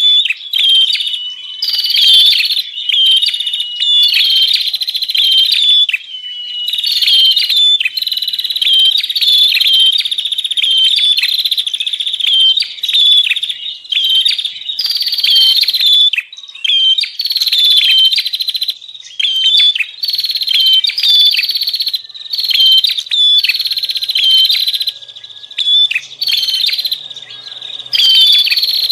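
Prenjak (prinia) calling noisily and without let-up: high buzzy trills broken by sharp chip notes, repeating about once a second with only brief pauses. This is the excited 'ribut' calling used as a lure for wild prenjak.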